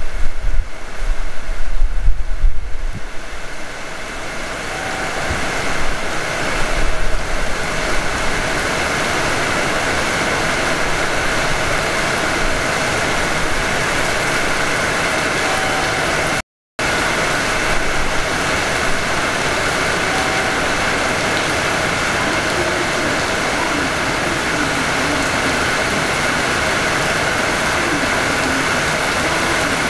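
Hanshin 5500 series electric train heard from the cab end: an uneven low rumble for the first few seconds that settles into a steady, even hiss.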